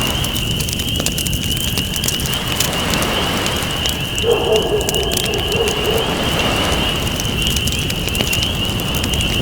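Campfire crackling with irregular pops over a steady wash of waves, with a steady high-pitched buzz underneath. About four seconds in, a low wavering tone sounds for a couple of seconds.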